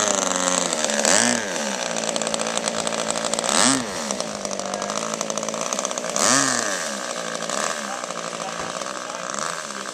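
Model engine of a radio-controlled F4U Corsair airplane in flight, its pitch swooping up and down as the plane makes passes, loudest about one, four and six seconds in, then fading as it flies off.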